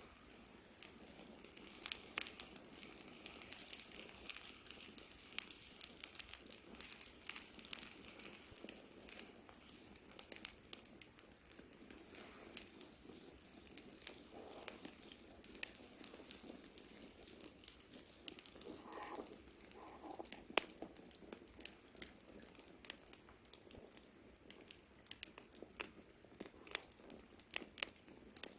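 Wood campfire burning, with a steady stream of irregular crackles and sharp pops.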